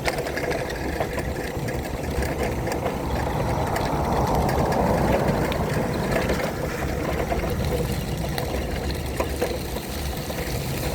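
Battery-powered wheelchair driving over wet, rough pavement: steady motor and tyre noise with frequent small knocks and rattles, swelling briefly about four seconds in.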